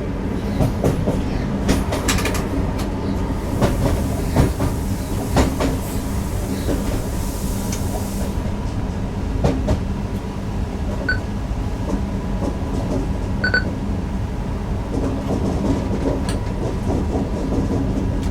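Newag Impuls EN63 electric multiple unit running, heard from the driver's cab: a steady low rumble with irregular clicks and knocks of the wheels over the track.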